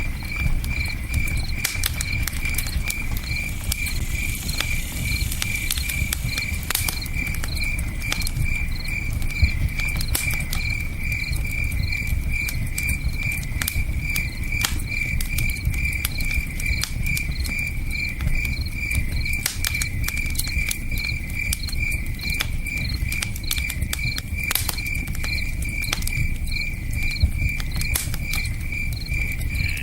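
Campfire crackling with scattered sharp pops, over a steady low rush of river water, while a cricket chirps in an even, unbroken pulse throughout.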